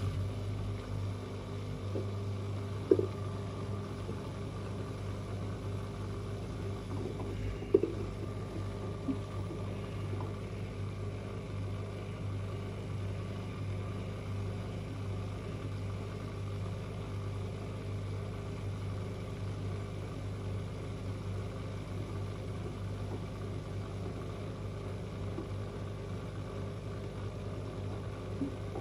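Front-loading washing machines running mid-cycle: a steady motor and drum hum, with two sharp knocks about three and eight seconds in.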